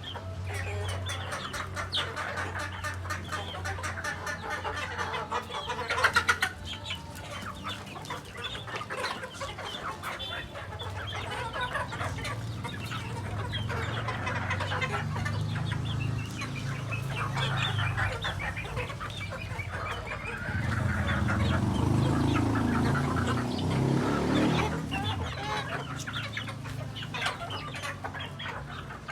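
Chickens clucking and calling over and over, with a brief loud burst about six seconds in and louder, lower calling from about 21 to 25 seconds.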